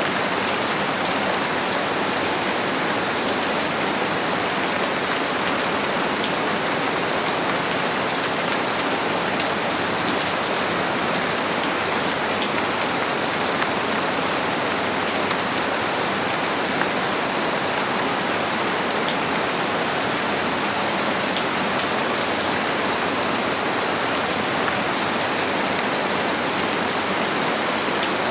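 Steady rain falling, a constant hiss with many fine drop patters throughout and no thunder.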